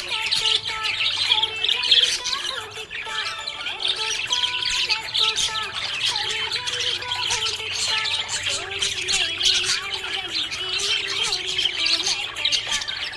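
Budgerigars chirping and chattering without pause: a dense stream of quick, high chirps and squawks.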